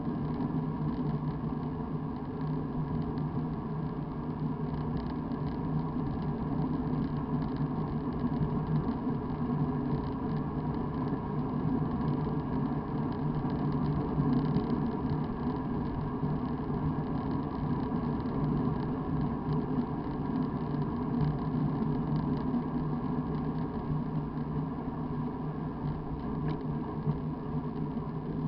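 Steady road noise of a vehicle in motion: a constant low drone with a level hum over an even rushing noise, unchanged throughout.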